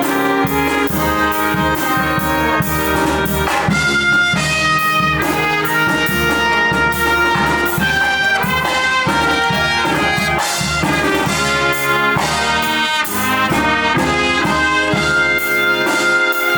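A live brass band playing an upbeat tune, with trumpets and trombones over a steady drum beat.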